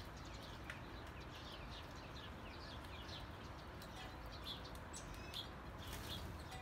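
Small birds chirping faintly: many quick, high, downward-slurred chirps, several a second, over a steady low background hiss.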